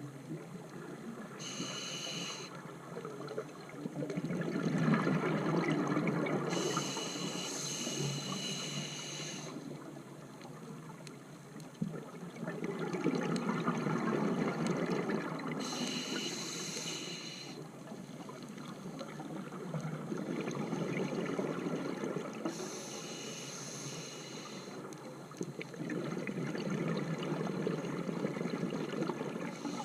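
Scuba diver breathing through a regulator underwater: a short hissing inhale through the demand valve, then a longer bubbling rush of exhaled air, repeating about every seven seconds.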